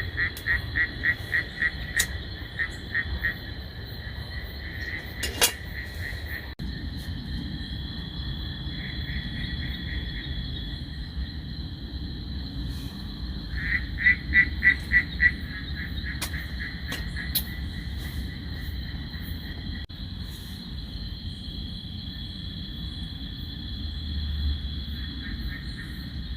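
Night forest chorus: a steady high insect drone, with a frog calling in rapid pulsed runs of about six notes a second, twice. A low steady rumble sits underneath.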